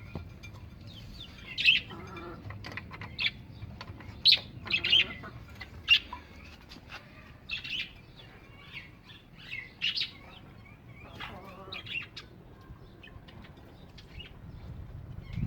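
Birds chirping and calling: many short, sharp, high-pitched chirps at an irregular pace, a few louder calls standing out.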